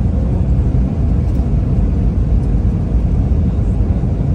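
Steady low rumble of an Airbus A320-family airliner's engines and airflow, heard inside the cabin.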